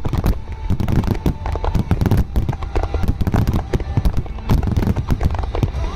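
Aerial fireworks going off in a dense, continuous run of bangs and crackles, with music faintly underneath.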